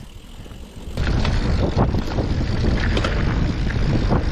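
Mountain bike riding over a dirt trail: wind buffeting the microphone, tyre rumble and rattling knocks from the bike, getting abruptly louder about a second in.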